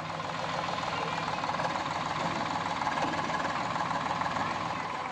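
Eicher 485 tractor's diesel engine running steadily with a fast, even knock, driving a thresher, with a steady whine over it.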